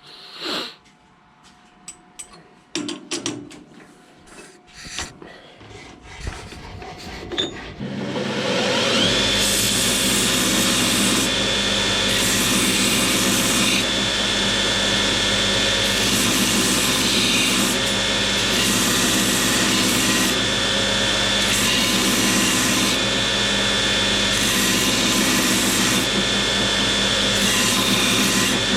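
A few clicks and knocks of metal parts being handled, then about eight seconds in a power tool's electric motor starts and runs steadily with a high whine.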